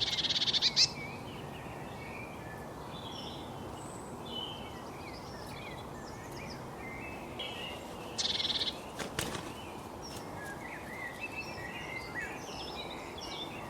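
Small songbirds chirping and twittering over a steady outdoor background hiss, with a short loud rapid trill at the very start and another about eight seconds in.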